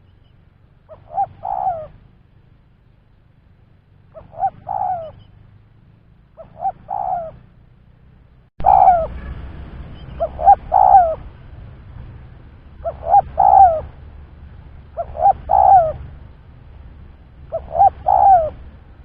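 Spotted dove (tekukur) cooing: eight repeated phrases, each a short note followed by a longer two-part coo, about every two to two and a half seconds. About halfway through, a background hiss comes in suddenly and the calls become louder.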